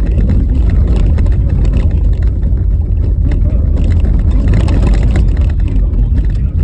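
A car driving on a rough, bumpy snow-covered road: a loud, steady low rumble with frequent knocks and rattles from the uneven surface.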